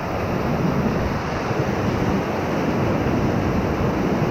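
River whitewater rushing steadily around a raft, with wind buffeting the microphone.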